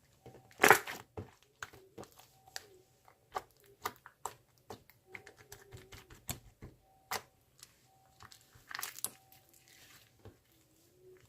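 Close, irregular crackling and crinkling, like material being torn and crumpled, made of many sharp clicks with a louder crunch about a second in and another near the end.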